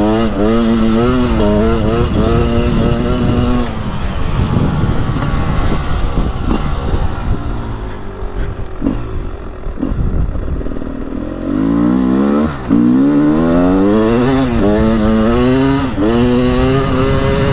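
A 2023 Beta 300 Race Edition's single-plug 300 cc two-stroke engine being ridden. It pulls steadily for a few seconds, then runs rough and off the throttle for a while. From about two-thirds of the way in it revs up several times in a row as the throttle is rolled on, each rise dropping back before climbing again.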